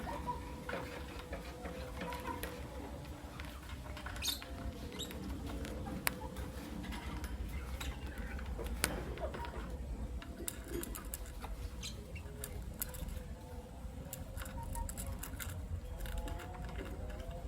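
Lovebirds moving about: scattered small clicks and scratches, with a short chirp about four seconds in, over a steady low hum.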